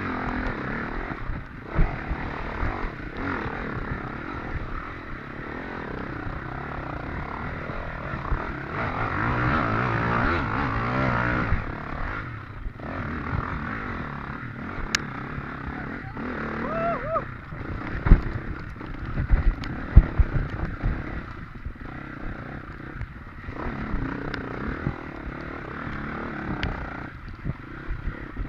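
Off-road racing motorcycle engine running and revving up and down as it is ridden over rough, rutted ground. Several sharp knocks come about two-thirds of the way through.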